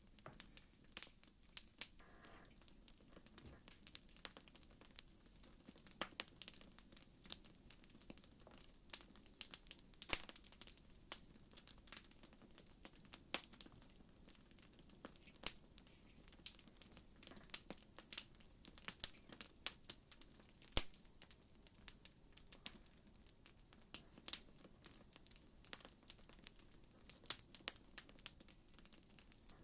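Campfire crackling quietly, with irregular sharp pops and snaps over a faint low hiss.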